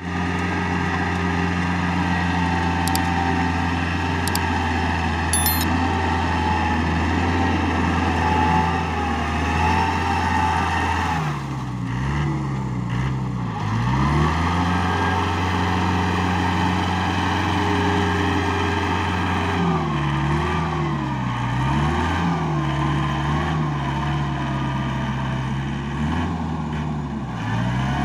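Tractor diesel engine running steadily while plowing. Its speed sags and picks back up several times, briefly about a third of the way in and repeatedly near the end, as the load comes and goes.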